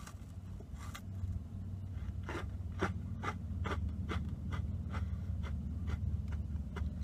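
Crunchy sandwich cookie (Gamesa Emperador) being chewed, with short crisp crunches about two a second, over a low steady hum.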